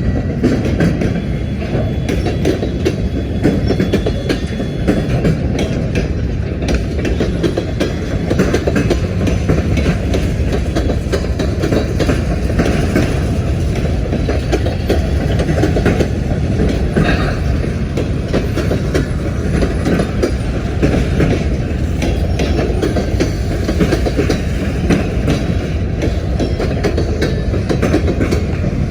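Manifest freight train's cars rolling past with a steady heavy rumble and the repeated clicking of wheels on the rails.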